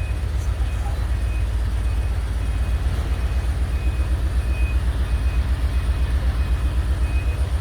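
A large engine running with a steady low throb. A faint high beep repeats about every half second.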